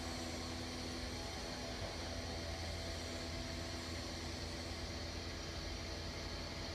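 Steady machinery hum with a faint high whine, even throughout.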